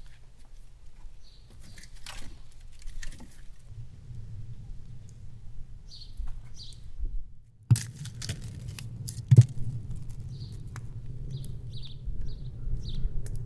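A bird chirping in short calls, repeated several times in the second half, over a low rumble with scattered clicks and knocks. The loudest are two sharp knocks near the middle, about a second and a half apart.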